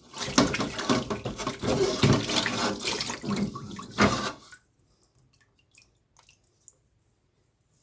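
Water sloshing and splashing irregularly as clothes are washed by hand, stopping about four and a half seconds in; a few faint ticks follow.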